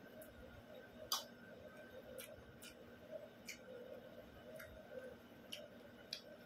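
Quiet eating sounds: faint smacks and clicks of the mouth while chewing a mouthful of rice and greens, coming irregularly about once a second, the loudest about a second in.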